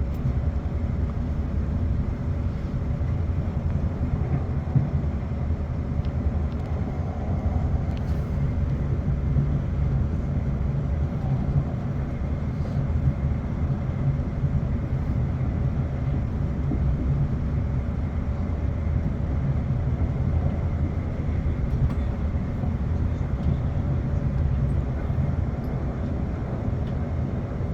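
Class 450 Desiro electric multiple unit running along the line, heard from inside the carriage: a steady low rumble of wheels on track, with a faint steady tone above it.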